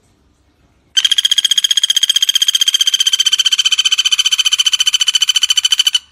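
Common flameback woodpecker giving its rattling trill: a loud, very fast, even run of notes that starts about a second in, holds for about five seconds, and stops abruptly.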